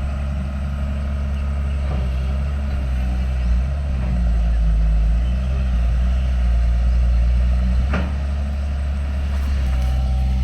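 Diesel engine of heavy earthmoving machinery running steadily under work, with a single short knock about eight seconds in.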